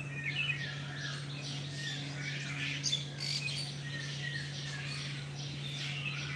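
Birds chirping, with many short rising and falling notes scattered throughout, over a steady low hum.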